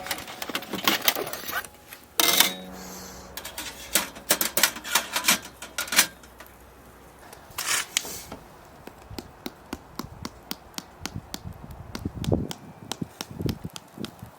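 Wood or charcoal fire crackling and popping in quick, irregular clicks, with a few louder clattering knocks in the first half.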